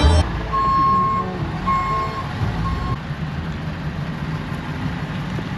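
Tow truck's reversing alarm beeping three times, about once a second, over the low running of its engine; the beeps stop about three seconds in, leaving the engine.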